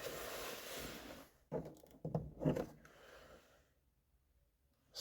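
A person breathing and moving in a small enclosed space: a long breathy hiss of about a second and a half, then a few short soft sounds.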